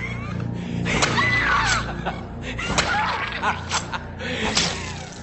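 A person laughing loudly, 'ha ha ha', in several outbursts over a low droning film score.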